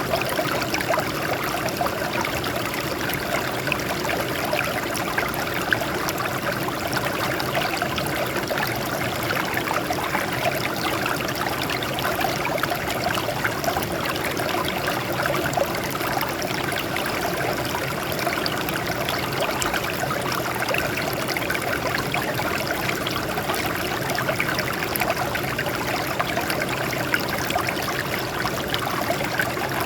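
Water flowing and trickling over rocks, a steady babbling stream.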